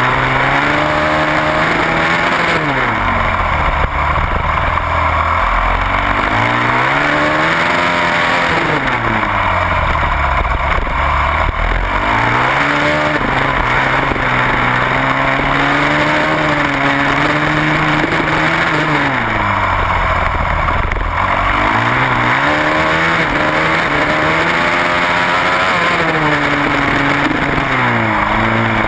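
Supermoto racing motorcycle engine heard onboard at race pace: its pitch falls as it brakes and shifts down into each corner and climbs again as it accelerates out, about five times. A steady hiss of wind on the microphone runs underneath.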